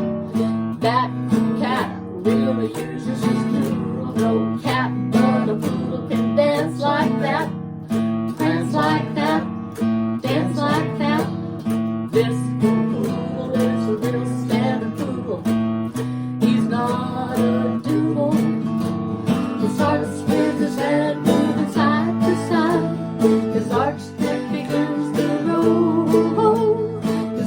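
Instrumental break of a country-gospel song: acoustic guitar picking quick runs of notes over strummed chords and a steady bass.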